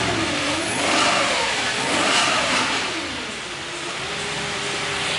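Audi S4 engine revved up twice in quick succession, then falling back to a steady idle about three and a half seconds in.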